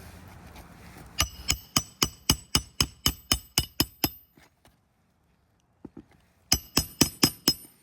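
Hand hammer driving roofing nails into a shingle, quick ringing strikes about four a second: a run of about a dozen, a pause, then about five more near the end.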